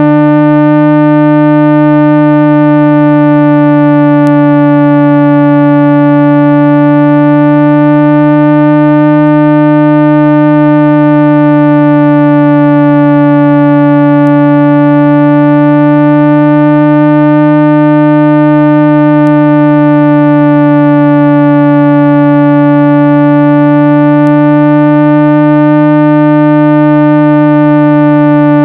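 Steady synthesized 165 Hz tone, a loud, unbroken low hum with many overtones that slowly swell and fade. It is a speaker-cleaning tone, played to vibrate dust and small particles out of a phone or earbud speaker.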